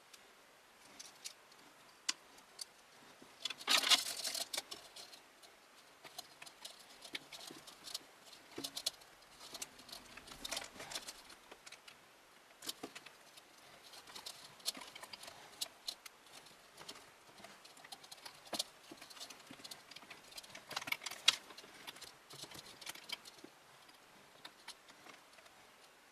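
Scattered clicks, taps and light rattles of hands working small parts inside a computer case, with a louder clatter about four seconds in.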